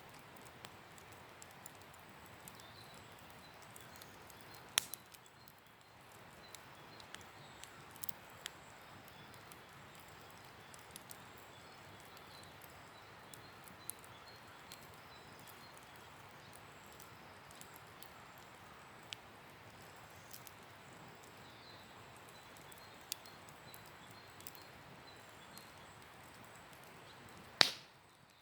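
Wood campfire crackling: scattered sharp pops and ticks over a faint steady hiss, with a loud snap about five seconds in and another near the end.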